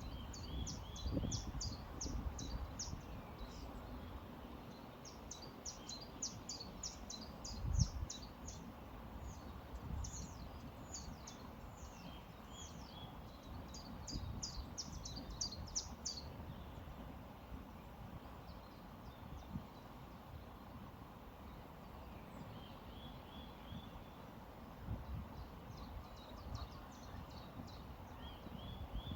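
Songbirds singing rapid high trills of quickly repeated notes, in bouts through the first half and again near the end, over the steady rush of a flowing river. A couple of low thumps, the loudest sounds, come near the start and about eight seconds in.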